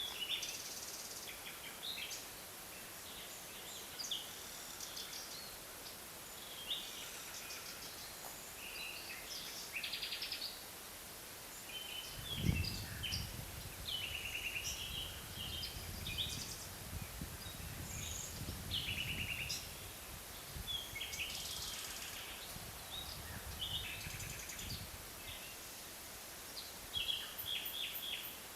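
Forest birds calling and singing, with many short chirps and trills from several birds throughout. About twelve seconds in a low rumble starts suddenly and runs for about twelve seconds under the birdsong.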